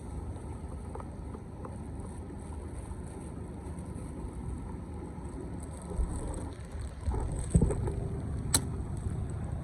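Steady low rush of floodwater with wind buffeting the microphone, broken by a few dull knocks in the second half and one sharp click near the end.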